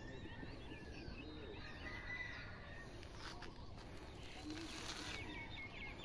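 Faint birds calling and chirping, several short wavering calls over a quiet outdoor background hush.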